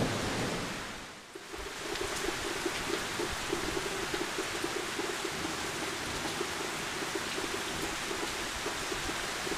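Heavy rain falling in a steady downpour on trees and a road. The sound dips briefly about a second in, then the rain runs on evenly.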